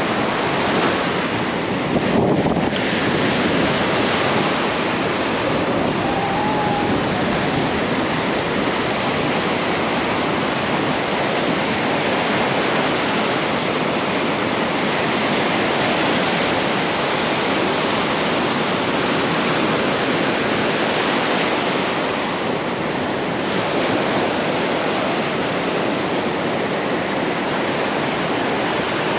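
Ocean surf washing onto a beach, a steady rush, with wind on the microphone.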